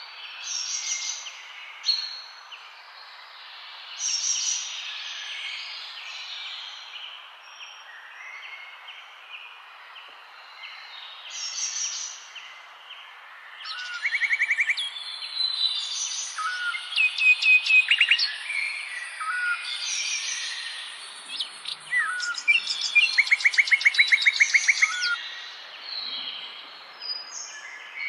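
Songbirds chirping and singing, with short whistled notes and several loud, rapid trills, over a steady background hiss.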